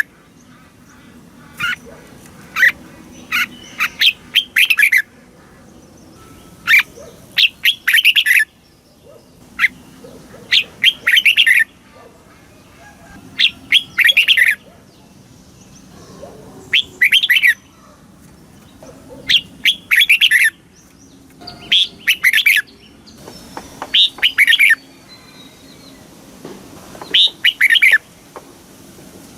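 Red-whiskered bulbul singing: short, bright, warbled phrases of a few quick notes, repeated every two to three seconds.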